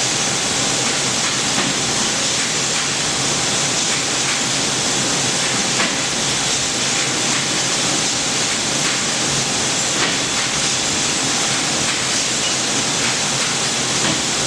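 Haas SL-20 CNC lathe running: a steady, unbroken hiss with a faint steady whine beneath it.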